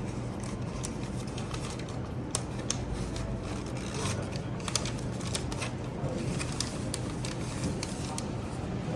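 Close-up crinkling, tapping and clicking of a chocolate bar's packaging being handled and turned over, over a steady low hum.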